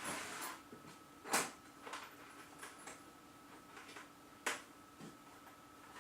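Hand tools and metal parts clicking and knocking on a Schaublin 70 lathe headstock as its screws are worked loose. A short rustle at the start is followed by a few sharp clicks, the loudest about a second and a half in and another about two-thirds of the way through, over a faint steady hum.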